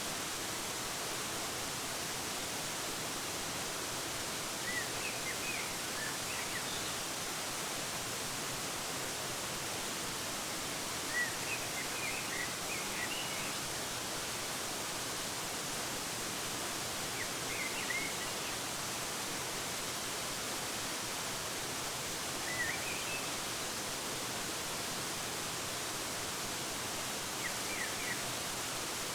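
Waterfall pouring as a steady, even hiss, with a small bird chirping short high phrases about every five seconds over it.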